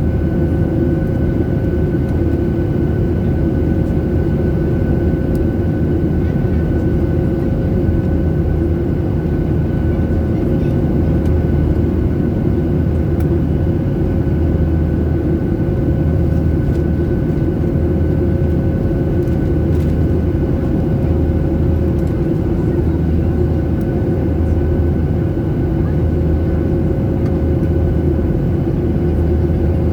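Jet airliner's engines running steadily at low thrust, heard inside the cabin during taxi: a constant rumble with a low pulsing hum and a faint steady whine.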